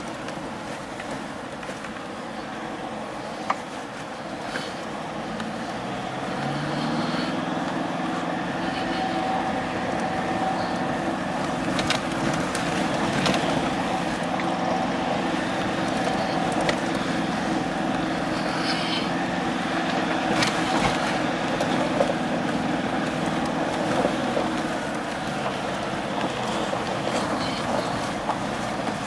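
Vehicle engine running under load, heard from inside the cabin, its note climbing and growing louder about six seconds in and then holding steady. Scattered clicks and knocks from the tyres running over a rough gravel road run through it.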